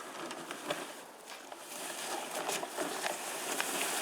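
Footsteps crunching and scuffing in snow, irregular, a little louder after about a second and a half.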